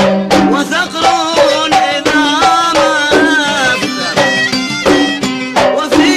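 Kuwaiti sawt music: a violin plays a wavering melody with vibrato over a steady beat of mirwas hand drums.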